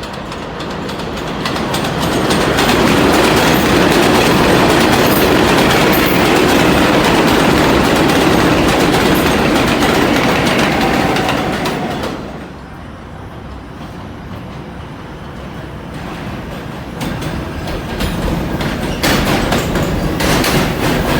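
New York City Subway 5 train running on the rails with a steady rumble. The rumble rises over the first few seconds and drops off sharply about halfway through. It then builds again, with sharp wheel clicks near the end.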